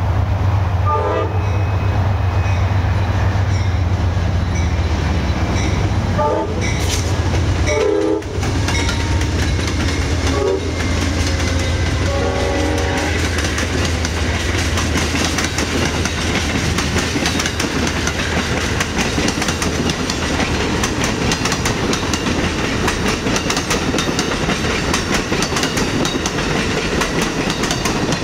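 Amtrak passenger train led by GE P42 Genesis diesel locomotives passing close by: the engines drone low while the horn sounds several blasts through the first half, the last one the longest. Then the passenger cars roll past with a steady clickety-clack of wheels over the rail joints.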